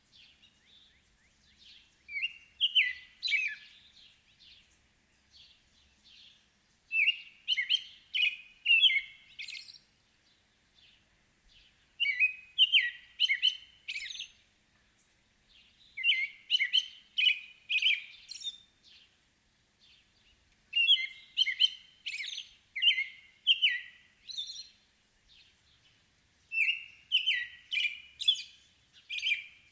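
A songbird singing a short phrase of quick, falling chirping notes, repeated six times about every five seconds with quiet pauses between.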